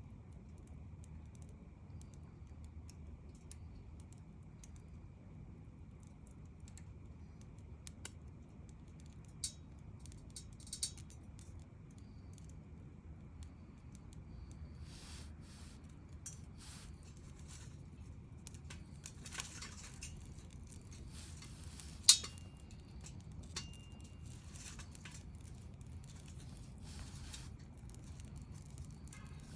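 Wood fire crackling, with scattered snaps and pops over a low steady rumble; one sharp, loud pop stands out about two-thirds of the way through.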